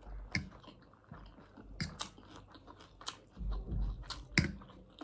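A person chewing and biting food close to the microphone: wet mouth sounds with several sharp crunches, the loudest a little past four seconds in.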